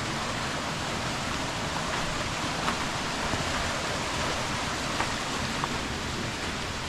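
Steady rush of falling water from a waterfall, with a few faint clicks.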